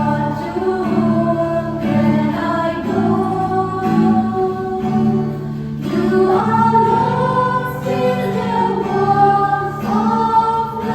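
Group of voices singing a slow song in long held notes, over a steady instrumental accompaniment.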